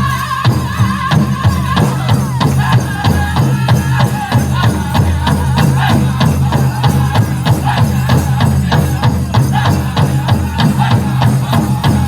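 Powwow drum group playing a chicken dance song: a big drum beaten in a fast, steady beat, with the singers' voices over it at the start.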